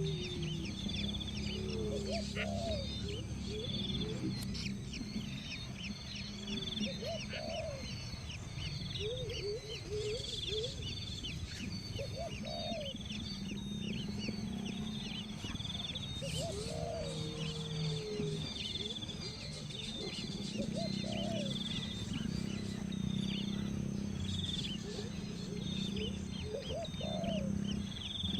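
Birds calling: rapid high chirps repeating throughout, with a lower call that rises and falls about every two seconds, over a steady low hum.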